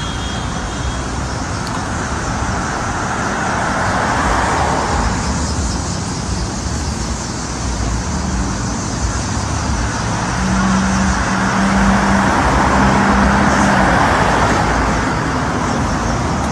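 Road traffic going past, with two swells as vehicles pass: one about four seconds in, and a longer one from about ten to fourteen seconds in.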